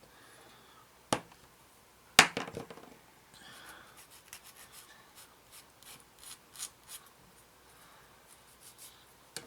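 Two sharp clicks, then a run of short scraping strokes of a hand tool against a small plastic model-kit part, cleaning off moulding flash.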